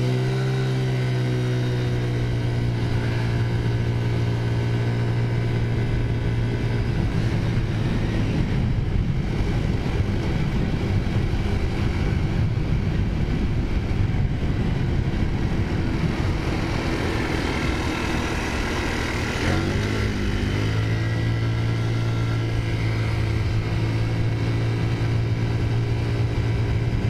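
Taotao 50cc scooter's four-stroke engine pulling away from a stop: its note rises and then holds steady under throttle. In the middle stretch it is buried in rough wind and road noise, then about twenty seconds in it revs up again and holds.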